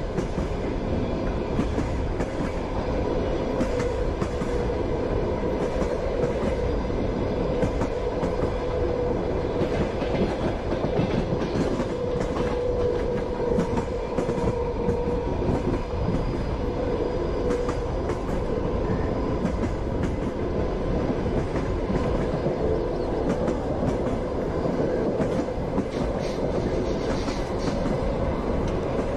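Passenger train running along the track: a steady rumble with the clickety-clack of the wheels knocking over rail joints, and a faint steady hum.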